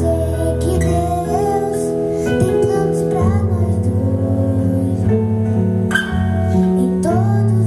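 Instrumental break in a slow gospel ballad: sustained keyboard chords and bass notes changing about once a second, under a melodic lead line that slides between notes.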